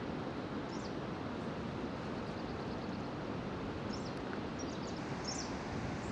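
Birds chirping, a few short high calls scattered through, over a steady low background rush.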